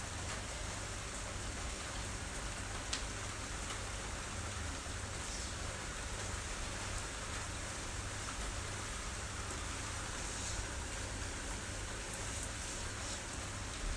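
Heavy rain pouring steadily, with the odd sharper drop striking close by, recorded on an iPhone microphone with a low rumble underneath.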